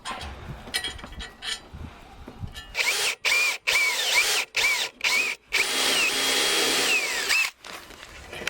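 Electric drill running in several short trigger bursts and then one longer run, its motor whine rising and falling in pitch with the trigger and winding down at the end. A few light knocks come before it.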